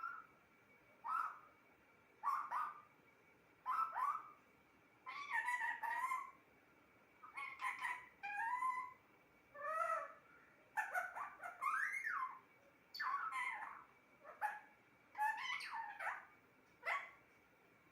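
Pet parrot calling: a series of short, pitched squawks and chatters, about one a second, that stop shortly before the end.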